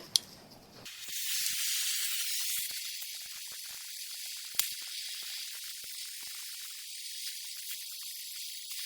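A steady spraying hiss starts about a second in, loudest for the first couple of seconds and then a little lower, with a sharp click near the start and another about halfway.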